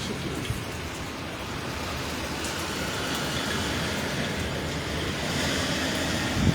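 Hurricane rain and wind: a steady rushing noise that swells a little near the end.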